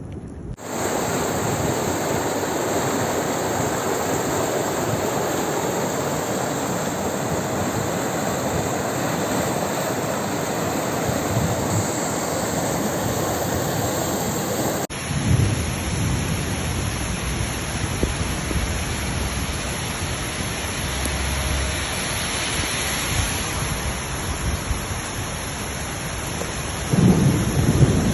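Heavy rain falling steadily in a thunderstorm, with low rumbles of thunder just after the halfway point and again near the end.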